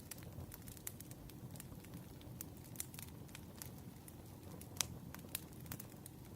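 Firewood burning with irregular crackles and pops over a low, steady rumble, with one sharper pop near the end.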